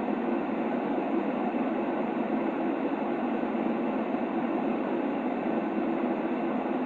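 Steady, unchanging noise of a baby-sleep white-noise track, a muted rushing hiss with no deep rumble and little treble.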